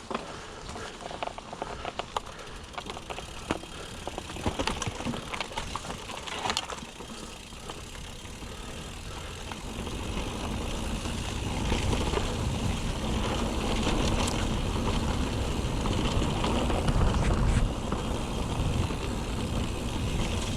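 Mountain bike being ridden over a rough track: tyre noise with many short rattling clicks from the bike. A low rumble grows louder about halfway through.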